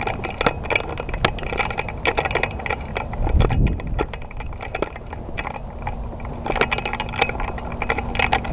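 Dry brush and leaves crackling, with irregular clicks and a rattle of gear close to the microphone as someone moves in the undergrowth. There is a low thump about three and a half seconds in.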